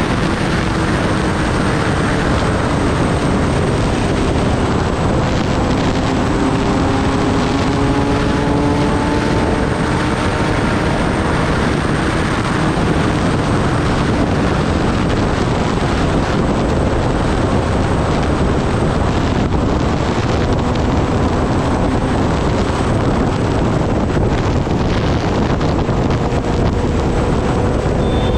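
Kawasaki Ninja ZX-10R under way: a loud, steady rush of wind and road noise, with the inline-four engine's note underneath drifting slowly up in pitch.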